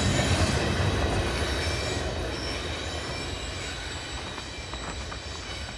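Double-stack intermodal freight train's last cars rolling past and away, the steel wheels squealing in several steady high tones over a low rumble that fades steadily.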